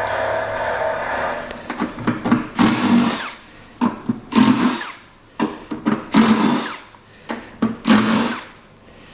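A handheld power tool runs steadily for about two seconds, then in four short bursts of about half a second each, with clicks and knocks between them.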